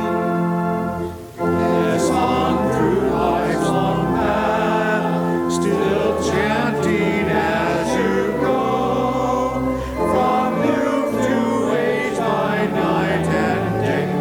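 A church choir singing with sustained chords, with a brief break between phrases about a second in.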